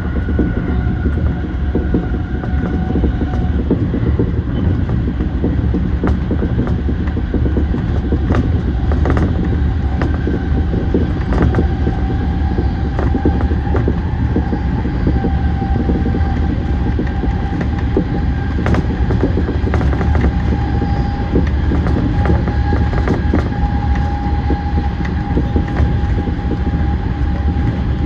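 E235 series electric train running at speed, heard from inside the leading car: a steady loud rumble with scattered clicks from the wheels over the rail joints and a faint steady whine.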